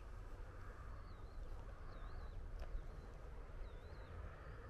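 A bird calling three times with short, wavering high notes over a steady low outdoor rumble and hiss.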